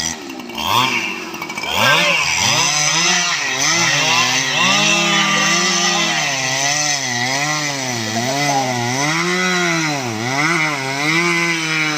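STIHL MS 881 chainsaw revving up, then running at high revs with its pitch dipping and recovering about once a second, as when the chain bogs under load in a cut through teak wood.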